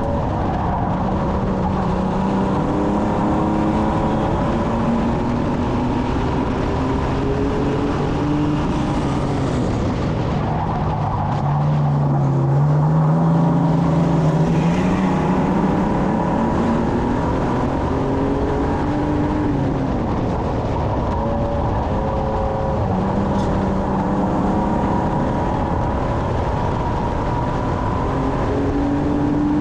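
Stock car engine heard from inside the car, its pitch rising and falling every few seconds as the driver accelerates and lifts around a short oval track, over steady road and wind noise.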